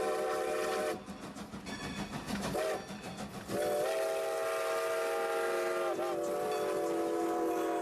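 Steam locomotive whistle, Great Western 90's, blowing a chord of several notes: a long blast that stops about a second in, a short toot, then another long blast from about three and a half seconds in. Between blasts the train itself is heard.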